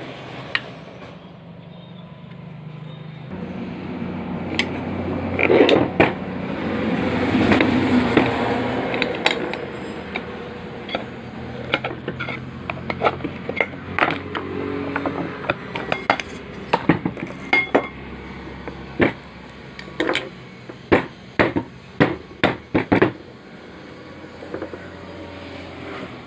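Ceiling fan being dismantled by hand: repeated metal clicks, clanks and knocks of screws, tools and fan housing parts, with a louder stretch of scraping and rattling a few seconds in.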